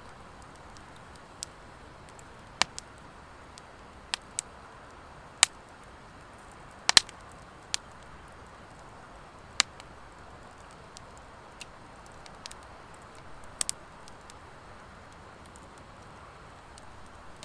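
Wood fire of driftwood and dry hardwood logs crackling: a dozen or so sharp, irregular pops from the burning wood over a low, steady hiss. The loudest is a quick double pop about seven seconds in.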